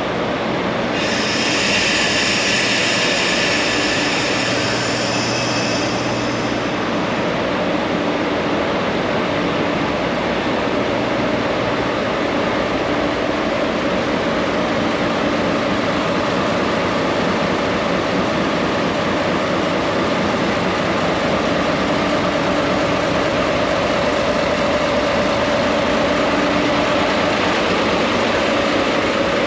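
Diesel-hauled Norokko sightseeing train running: a steady engine and rail roar. A high squeal from the wheels or brakes sounds from about one to six seconds in.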